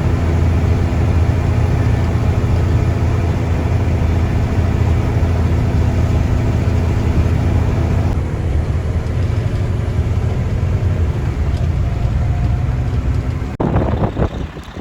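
Heavy diesel engine of a Mack snowplow truck running steadily under way, a loud low drone. About eight seconds in it turns duller, and near the end it cuts suddenly to a different, gusty sound.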